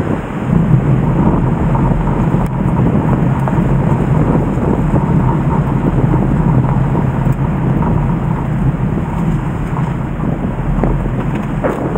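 The Nagara River in flood, its swollen water rushing loudly and steadily with a deep, even noise.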